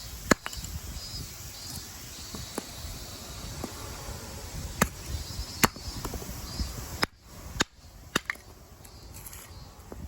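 Wood campfire crackling, with sharp pops scattered through it over a steady low rustle of burning.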